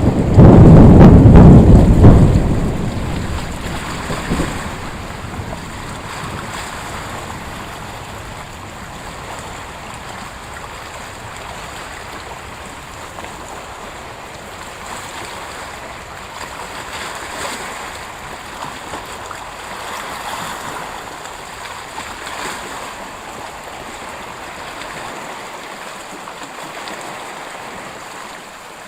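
Loud thunderclap at the start, rumbling low for a couple of seconds and dying away by about four seconds in with a last smaller rumble. A steady, even background noise follows.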